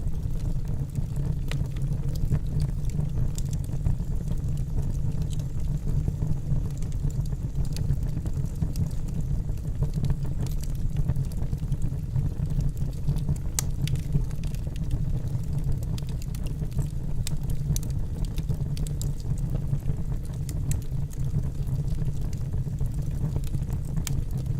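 Wood fire burning in a fireplace: a steady low rumble of flame with frequent sharp crackles and pops from the logs.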